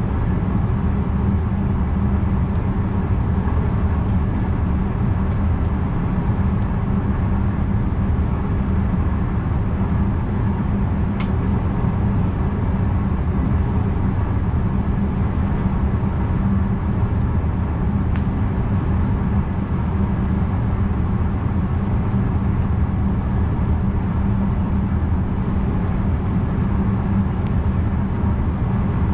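Steady running rumble of a VIRM double-deck electric train, heard inside the driver's cab, with a few faint ticks.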